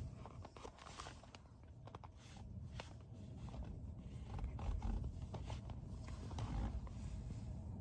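Outdoor background with an uneven low rumble of wind buffeting the microphone, plus scattered faint clicks.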